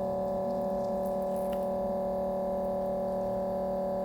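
Steady electrical hum made of several fixed tones, holding an even level without change.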